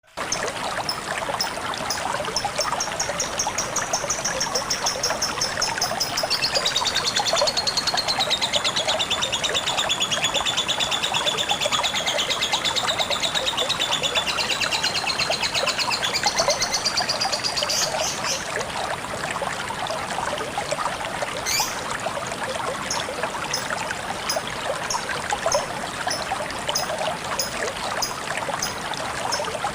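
Lovebird singing a long, rapid, high trill that dips lower in pitch midway and rises again, over a steady trickle of flowing water. After the trill ends, short high chirps repeat at intervals.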